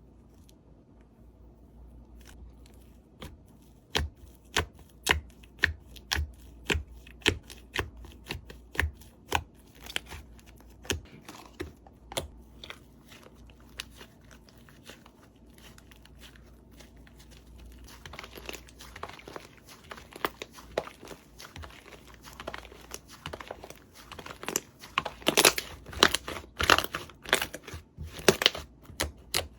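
Slime being squeezed and poked by hand, giving sharp, irregular pops and clicks. About two-thirds of the way in, it turns to denser crackling with pops, loudest near the end.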